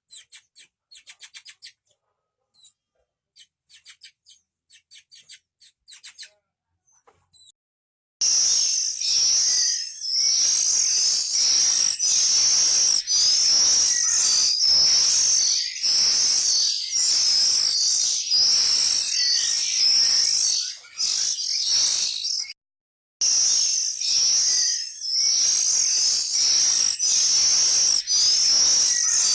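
Short, high-pitched chirps from an oriental magpie-robin (kacer) breeding cage. About eight seconds in, a loud, continuous high-pitched chirring sets in and runs on, cut off once briefly.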